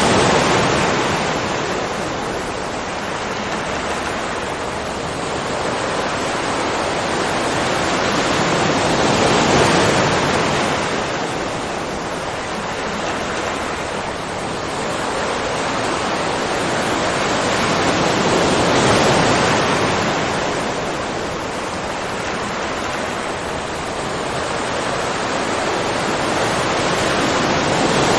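Ocean surf: a continuous wash of waves that swells and ebbs, with a peak about every nine to ten seconds.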